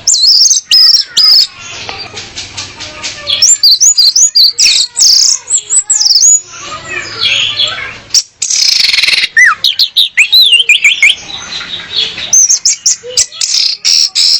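Orange-headed thrush singing: loud, varied phrases of high whistled notes sliding up and down, mixed with quick chattering runs.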